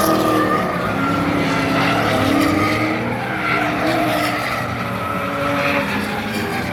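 Drift cars sliding on track: engines revving up and down over the screech of spinning tyres.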